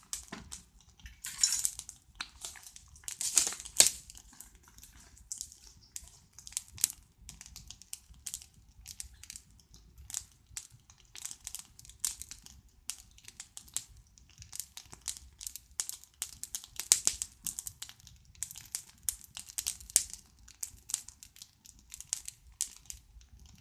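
Wood campfire burning well and crackling, with irregular sharp snaps and pops. A few louder pops come in the first four seconds and again about seventeen seconds in.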